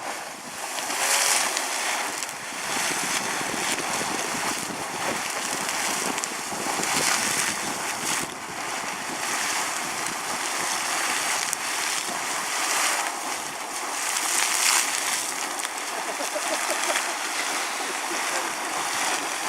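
Sawmill Geyser erupting: boiling water splashing and bursting out of its crater in irregular surges, a steady rushing splash that swells every second or few as the eruption gets going.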